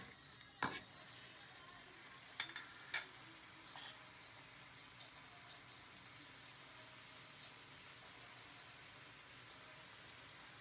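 Shrimp sizzling in hot oil in a wok, with a spatula scraping and knocking against the pan a few times in the first four seconds. After that comes a steady sizzle.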